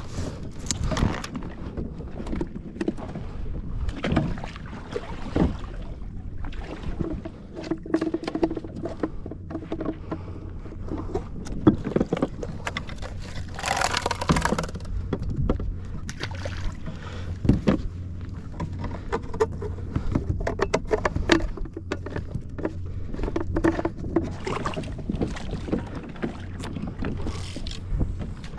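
Water lapping and splashing against a fishing kayak's hull, with scattered knocks on the hull and a louder splash about fourteen seconds in.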